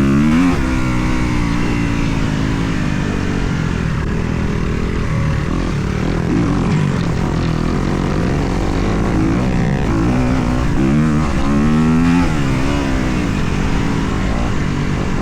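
Kawasaki KX250 four-stroke single-cylinder dirt bike engine under load, revving up and down over and over as it is ridden, with several quick rises and falls in pitch late on.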